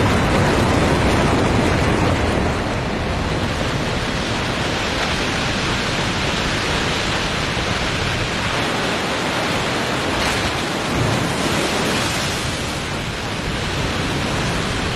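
A waterfall at spring ice break-up: water thick with mud and broken ice pouring over the drop in a steady, loud rush of noise.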